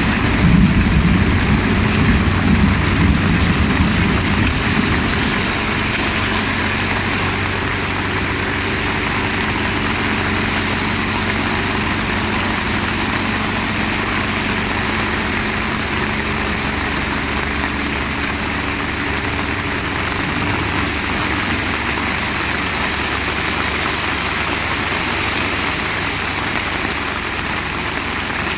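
Heavy rain falling steadily, with a motor engine running close by that is loudest in the first few seconds and then fades.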